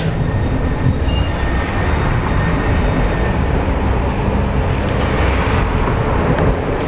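Tram running along the track between stops, heard from on board: a steady rumble of wheels on rails and running gear.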